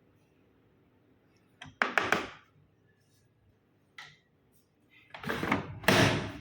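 Handling noises on a front-loading washing machine: a sharp double clack about two seconds in, a short click at four seconds, then a longer, louder clatter near the end, typical of its door or detergent drawer being shut.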